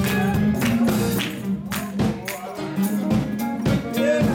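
Gospel church band playing behind the sermon: held low chord notes with percussion hits on a steady beat.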